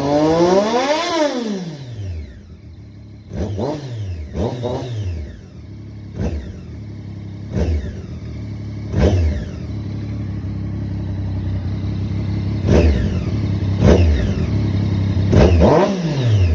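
2017 Triumph Daytona 675R's 675 cc inline three-cylinder engine, warm, revved through its exhaust while stationary. One longer rev near the start, then a string of short, sharp throttle blips, each rising and falling quickly, with the engine settling back to a steady idle between them.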